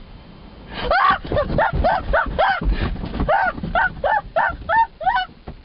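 A rapid series of short honking animal calls, about three a second, starting about a second in, each call rising and falling in pitch.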